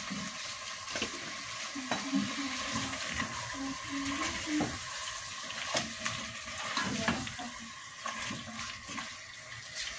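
Beef and capsicum stir fry sizzling in a non-stick pan while a spatula stirs it, with scattered light scrapes and knocks of the spatula against the pan.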